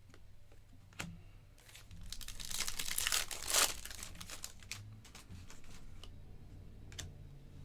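A foil trading-card pack of 2024 Panini Mosaic Football being torn open, its wrapper crinkling in a rustling burst of about two seconds. There is a sharp click a second before the burst and another one later.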